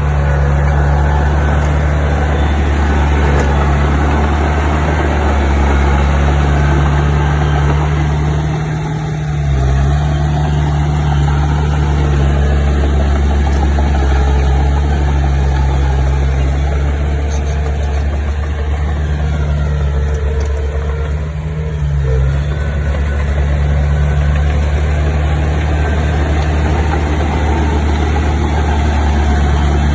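Heavy construction machine's diesel engine running steadily, with its note dipping briefly twice.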